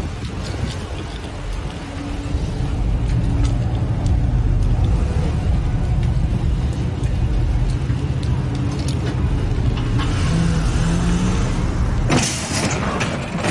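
Car engine and road rumble heard from inside a moving vehicle, growing louder a couple of seconds in. Near the end a sudden loud impact strikes, with about a second of noise after it, typical of a collision.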